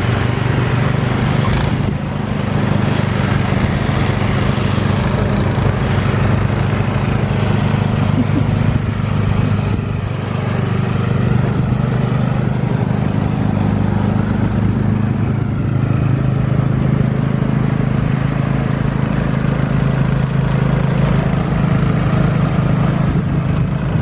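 A snowblower's small gasoline engine running steadily at constant speed while snow is cleared.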